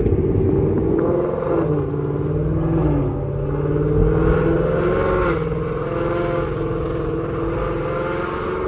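Ford Mustang GT's 5.0 V8 with long-tube headers and Corsa Xtreme exhaust running under way, loud. Its pitch dips and rises as the revs change in the first few seconds, then holds steadier and climbs slowly near the end.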